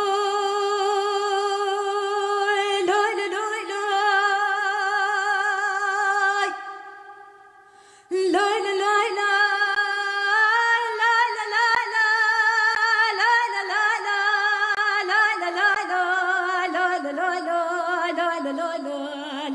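A woman singing a Kurdish folk song in a long, free-flowing vocal line with little or no accompaniment. She holds long notes with a wide vibrato, breaks off about six seconds in, then goes on with ornamented, wavering phrases.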